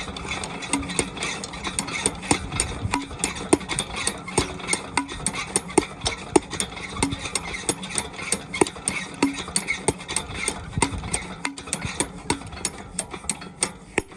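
Diesel engine of a water pumpset running with a regular knocking beat, about three to four beats a second.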